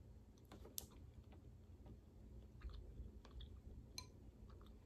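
Faint close-up chewing of a bite of egg, with a few soft scattered clicks.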